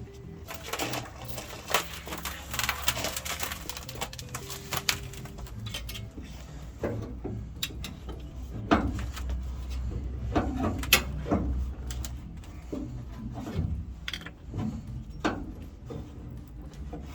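Irregular clicks, knocks and scrapes of hand tools and metal parts being handled during work on a truck.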